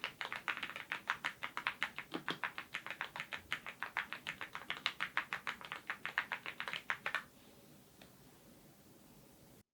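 Fast, steady typing on a YUNZII IF99 full-size mechanical keyboard fitted with lubed Gateron Ink red linear switches, about seven to eight keystrokes a second, with one deeper stroke about two seconds in. The typing stops about seven seconds in, leaving faint room tone.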